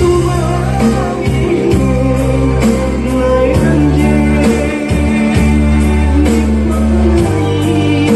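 A song sung with band accompaniment: held bass notes under a steady beat, with a melody line over them.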